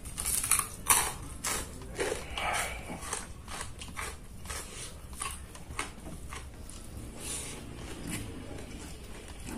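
A person chewing and crunching food close to the microphone: an irregular run of crisp bites and mouth clicks, loudest in the first second.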